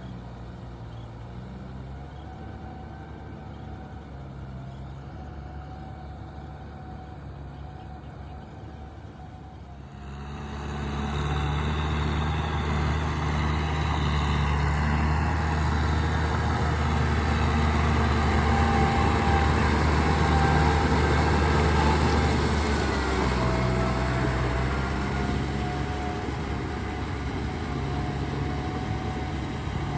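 Heavy vehicle's diesel engine running at low speed. About ten seconds in it picks up sharply and runs loud and hard for over ten seconds, then eases back somewhat.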